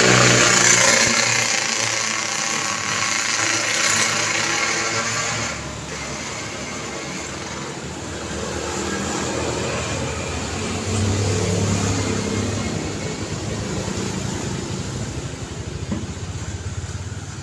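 Road traffic passing: car and motorcycle engines and tyre noise, loudest as vehicles go by in the first few seconds, easing off, then swelling again as another vehicle passes about eleven seconds in.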